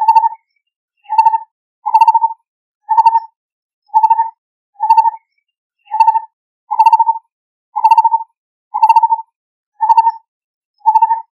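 Lineated barbet calling: a low note repeated about once a second, each note a quick run of pulses, at a steady pace.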